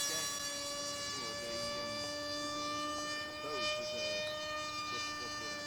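Small foam RC plane's electric motor and propeller running at full throttle in flight: a steady whining drone that holds one pitch.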